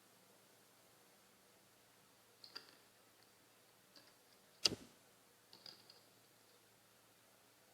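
Quiet room with a few scattered light clicks and taps, and one sharper knock about halfway through.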